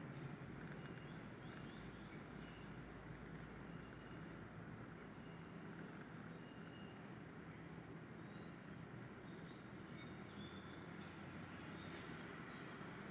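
Faint outdoor background hiss with many short, high chirps from small birds scattered throughout.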